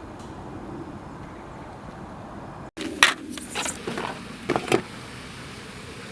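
Steady low background hum, then after an abrupt cut a short run of light clicks and clinks from objects being handled.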